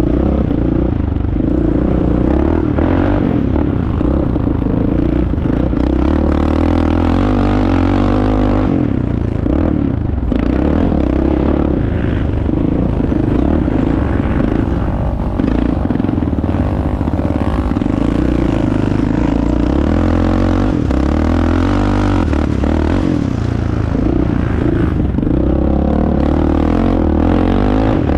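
Motor vehicle engine running steadily under way, its pitch drifting slightly up and down with small changes in revs.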